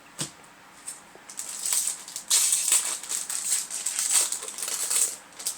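Foil trading-card booster pack and cards being handled: a light tap, then dense crinkling and rustling, loudest through the middle and second half.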